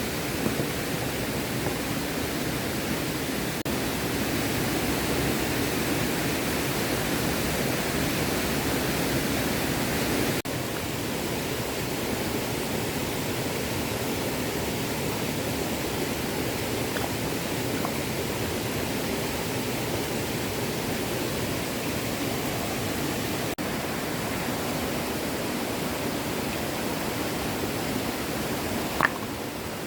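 Small stream flowing, a steady rush of water, with one short sharp click near the end.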